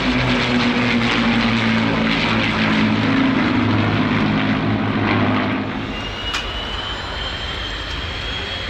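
Piston aero engines of a Lancaster bomber flying in formation with a Hurricane and a Spitfire, droning steadily in a flypast. The pitch sinks slightly as they pass, and the sound falls away about six seconds in. After a click, a quieter rushing noise with a faint rising whine takes over.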